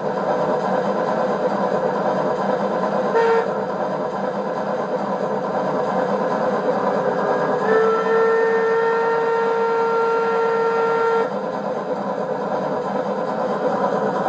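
Sound module of a Piko BR 50 model steam locomotive playing through its small loudspeaker: a steady steam-engine running sound starts, with a short whistle toot about three seconds in and a long whistle from about eight to eleven seconds.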